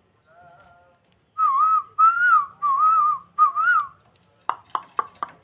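A starling (jalak) whistling: four loud warbling whistles, wavering in pitch, followed near the end by a quick run of sharp clicking notes.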